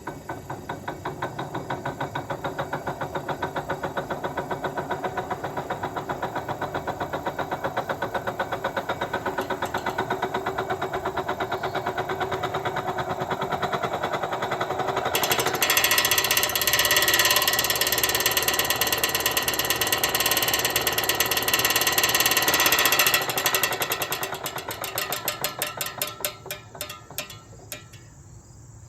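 A 1956 Fedders window air conditioner running with a fast, rhythmic rattling knock. The sound grows louder and harsher about halfway through. In the last few seconds the rattle slows and dies away as the unit winds down.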